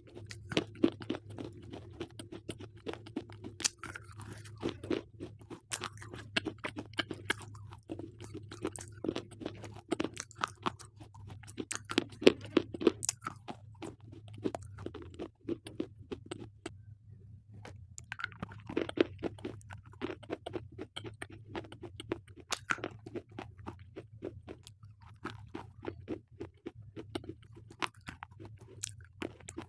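Close-up crunching and chewing of slate pencils: a dense run of sharp, brittle crunches and bites, with a short lull a little past halfway, over a faint steady hum.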